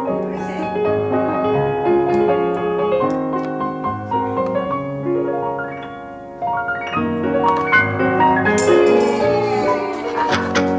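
Piano music, with a softer stretch a little past the middle before fuller notes come back.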